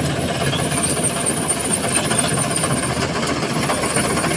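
Dashmesh combine harvester running steadily under load as it harvests paddy, its engine and machinery making a constant noise with a thin, steady high whine over it.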